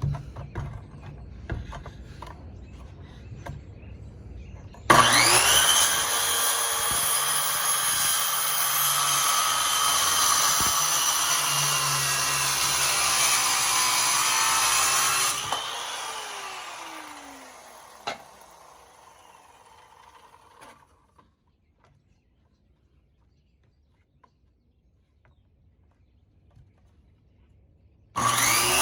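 An electric power saw starts suddenly about five seconds in and runs for about ten seconds cutting a wooden board, then is switched off and winds down with a falling pitch. After some seconds of near silence the saw starts again at the very end.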